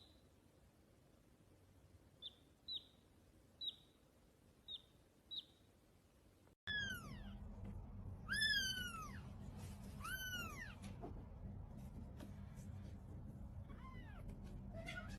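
A few brief, high squeaks, then, after a cut, a cat meowing: three high-pitched meows that each rise and fall, with a fainter one near the end, over a low steady hum.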